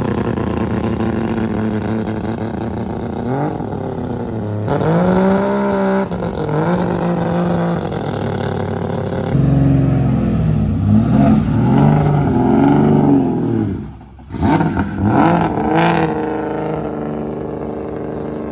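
Car engine running and being revved, its note climbing and falling several times, busiest in the second half, with a brief drop about fourteen seconds in.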